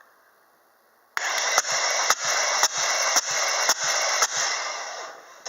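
Mercedes-Benz M112 V6 engine being turned over by its starter motor: a rasping cranking noise that starts about a second in, pulsing about twice a second with the compression strokes, then dies away near the end.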